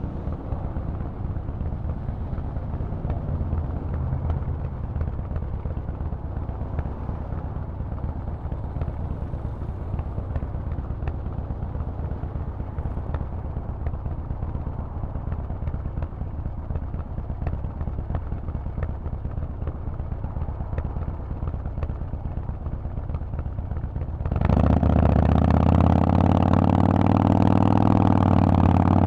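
Harley-Davidson Forty-Eight's 1200 cc V-twin through a Vance & Hines exhaust, running low and steady. About 24 seconds in it opens up and gets much louder, the pitch climbing as the bike accelerates.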